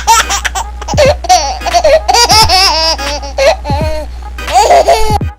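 Loud, high-pitched laughter over background music, with a deep falling bass drop about every second and a half.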